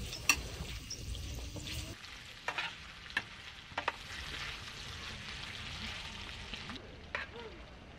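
Pieces of daechang (beef large intestine) sizzling in a flat pan, with stainless tongs clacking against the pan a handful of times as the pieces are turned. A single sharp click comes near the start.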